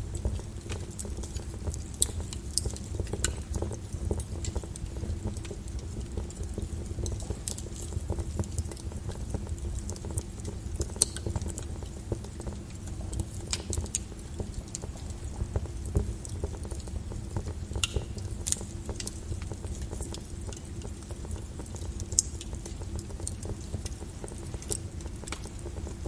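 Steady rain mixed with a crackling wood fire: irregular sharp pops and snaps, a few a second, over a continuous rain hiss and low rumble.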